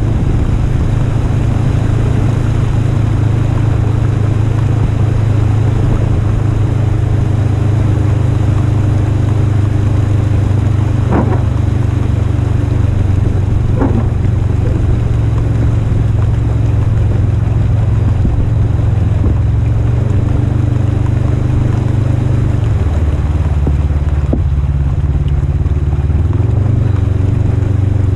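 Polaris RZR 1000 side-by-side's engine running steadily under way, a loud low drone. Two brief knocks come about 11 and 14 seconds in, and the engine note shifts slightly near the end.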